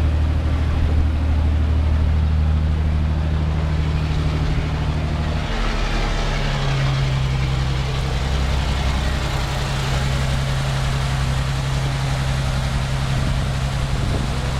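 An engine running steadily, its note stepping up to a higher pitch about five and a half seconds in.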